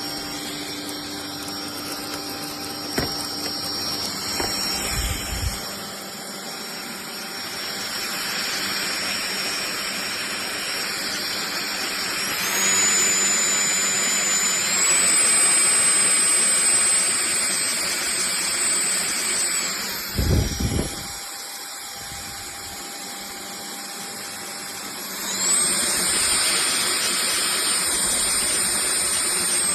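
FDUXUD cordless stick vacuum cleaner running with a steady motor noise and a high whine. The whine rises in pitch and gets louder about 12 seconds in, drops back around 20 seconds, and rises again near 25 seconds. A few short knocks are heard along the way.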